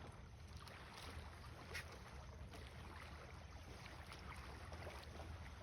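Faint outdoor ambience: a steady low rumble with a few faint ticks.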